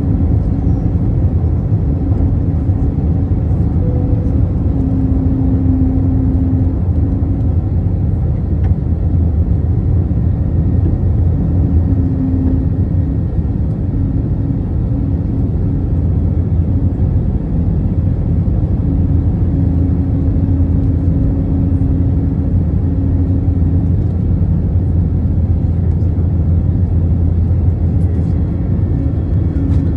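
Steady low rumble of an Airbus A321's jet engines and airflow heard inside the passenger cabin, with a faint hum that comes and goes.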